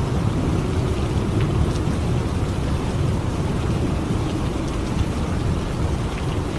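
Steady rain in a thunderstorm: an even wash of rainfall over a continuous low rumble of thunder, with scattered drops ticking.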